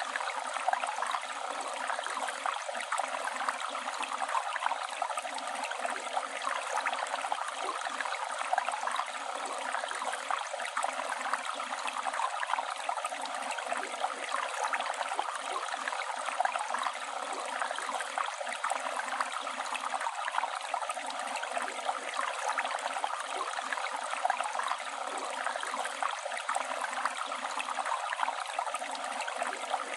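Flowing river water running and babbling steadily over stones, a continuous rush with fine splashing flicker.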